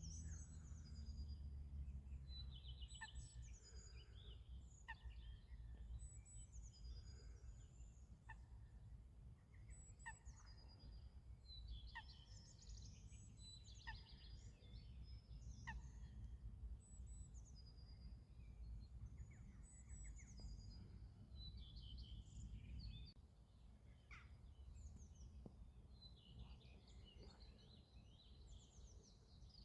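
Small birds chirping and singing, with a short sharp falling call repeated about every two seconds, over a faint low rumble that drops away near the end.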